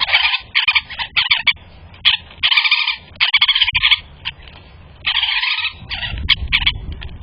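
Bird giving a series of loud, harsh, raspy calls, some clipped and short, three held for about half a second each.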